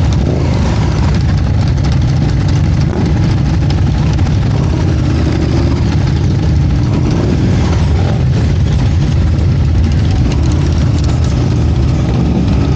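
Motorcycle engine running steadily at a low, even rumble, with voices faintly under it.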